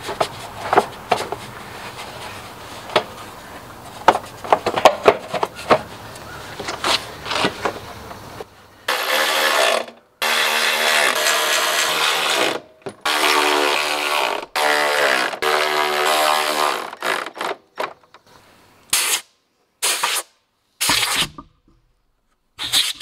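Clicks and knocks of an engine shroud being fitted back in place. Then, from about nine seconds in, a power driver runs in several short bursts with abrupt stops, fastening the cover.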